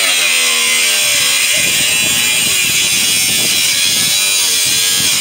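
A handheld power tool running steadily at full speed with a loud, high-pitched hiss, used to cut apart scrap metal. Voices are faintly audible underneath.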